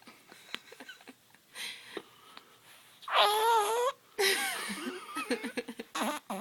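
A waking baby's vocal noises: quiet breaths and small mouth sounds, then about three seconds in a loud, wavering, bleat-like cry, followed by breathy grunting squeaks.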